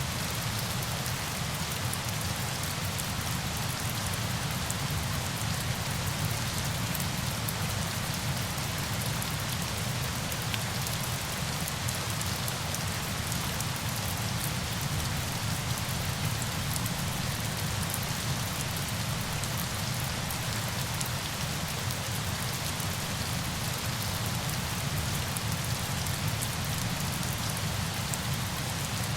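Falling water: a steady, dense hiss with a low rumble beneath and fine ticks of drops.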